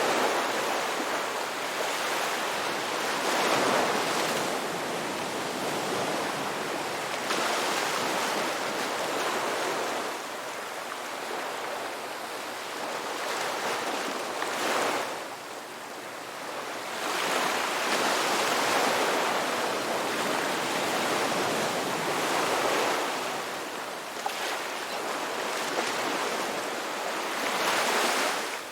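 Ocean waves: a steady wash of surf that swells and falls back every few seconds.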